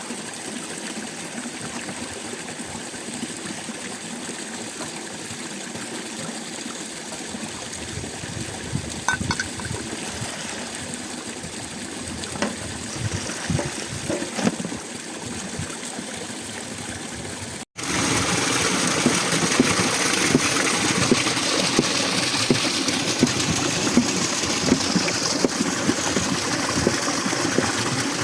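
Mountain stream water running steadily, with scattered small splashes in the middle. At about 18 s it cuts abruptly to a louder, closer rush of water.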